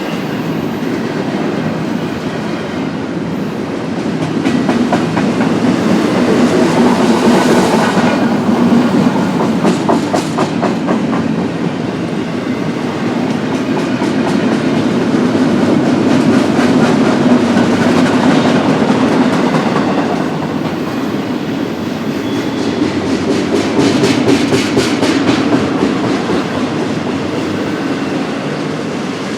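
Freight cars of a BNSF double-stack intermodal train rolling past at speed: a steady rumble of wheels on rail that swells and fades as the cars go by, with bursts of rapid clicking as wheel sets cross rail joints.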